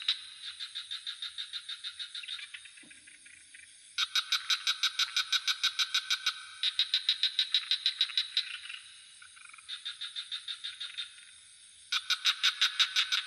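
Frogs calling in rapid pulsed trills, about eight pulses a second, in overlapping bouts of two to three seconds. A steady high-pitched insect drone runs underneath.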